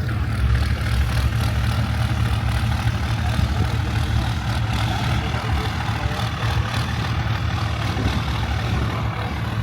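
A large truck engine idling with a steady low rumble.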